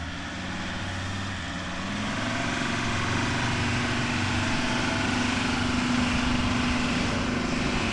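Engine running steadily, its pitch rising a little about two seconds in as it picks up speed, then holding.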